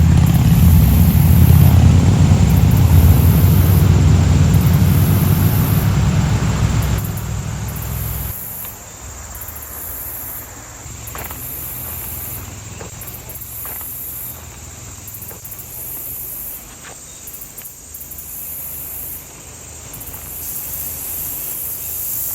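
Crickets chirping in a steady pulsing pattern. Over them, a loud low rumble runs for the first seven or eight seconds and cuts off abruptly, leaving the crickets and a few faint clicks.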